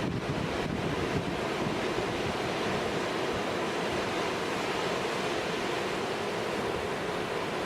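Large storm waves breaking and washing against a rock jetty, a steady rushing noise, with wind buffeting the microphone.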